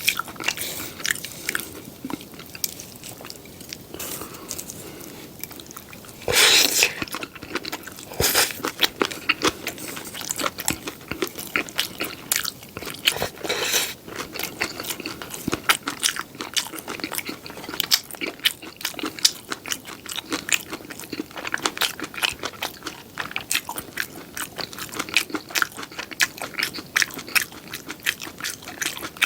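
Eating sounds of crispy seafood pajeon: a steady run of small crunches and wet chewing clicks, with a few louder crunching bites about six, eight and thirteen seconds in.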